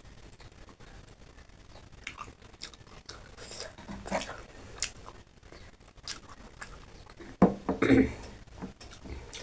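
A person chewing and eating food, with soft mouth sounds and small clicks. Near the end there is a louder sudden thump.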